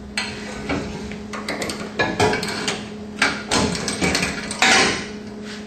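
Metal exhaust tailpipes and hangers clanking and knocking as they are handled and hung under the truck: a run of irregular metallic knocks, the loudest a little before the end, over a steady low hum.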